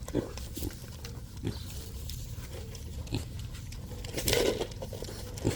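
Mini pigs grunting as they feed: short low grunts every half second or so, with a louder, longer grunt about four seconds in.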